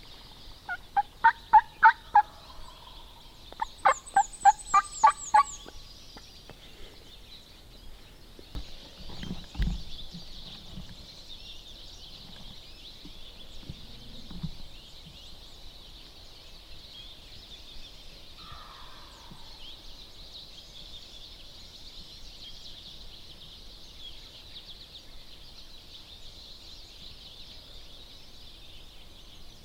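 Wild turkey calls: two loud runs of rapid, evenly spaced notes, each lasting about a second and a half, a couple of seconds apart. A dull thump follows a few seconds later, over a faint steady high hiss of woodland insects or birds.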